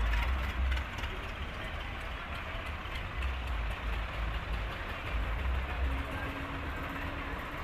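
Tractors' diesel engines running in a passing column, a steady low rumble, with indistinct crowd voices mixed in.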